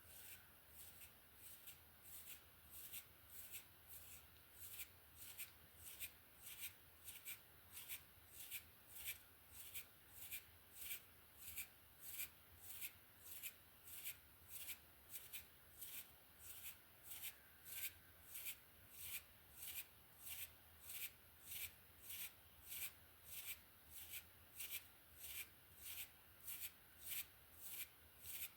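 Hairbrush drawn through hair in slow, even strokes, a soft bristly swish about one and a half times a second.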